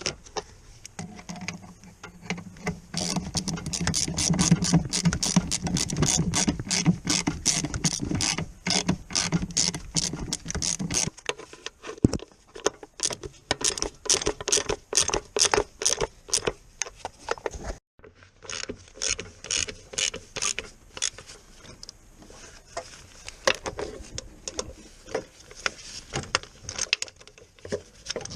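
Ratchet spanner clicking in long, rapid runs as fasteners are worked, with a steady motor hum under the clicking for roughly the first ten seconds.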